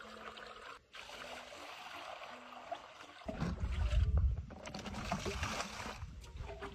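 Water trickling and splashing as an ice mould is soaked in water to loosen the ice from it, with a low rumble joining in from about three seconds in.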